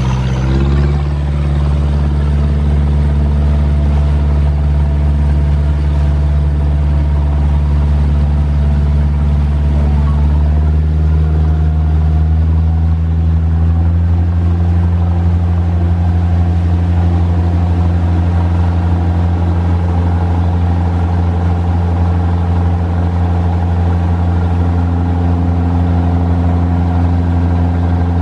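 Yanmar 4JH2-DTZ four-cylinder turbo-diesel marine engine running under way. Its pitch steps up about half a second in, climbs a little more around ten to fourteen seconds in, then holds steady.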